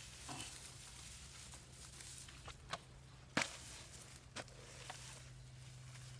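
A few scattered sharp knocks and clicks, the loudest about three and a half seconds in, over a steady low hum.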